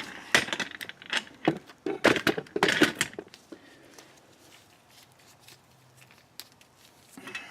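A quick run of sharp clicks and clatters over the first three seconds, then quiet: handling noise from parts and fasteners being worked on a car's rear axle.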